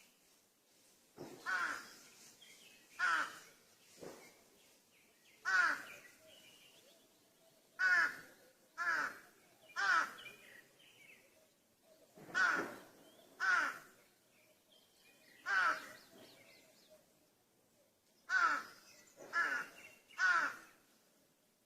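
A crow cawing repeatedly: harsh, hoarse caws, sometimes single and sometimes in runs of two or three, about a dozen in all, with short pauses between them.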